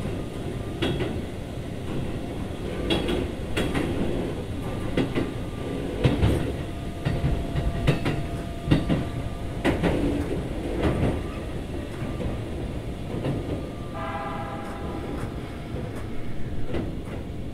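Running sound heard aboard a Keikyu 2000 series electric train: a steady rumble of wheels on track, broken by irregular sharp clicks as the wheels cross rail joints. A brief rising whine comes in about fourteen seconds in.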